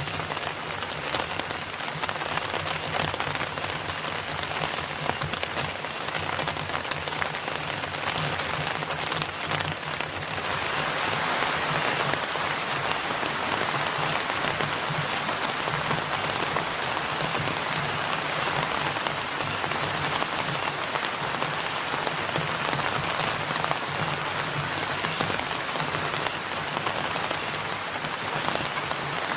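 Steady rain falling and pattering, growing denser and louder about ten seconds in.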